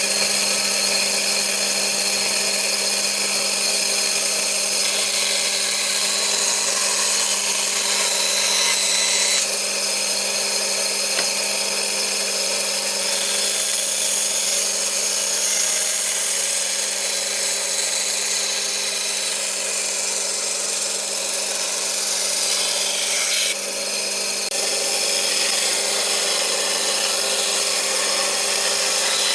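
Electric power tool working wood, running steadily with a constant hum under a high hiss, with slight abrupt changes in tone about a third and four-fifths of the way through.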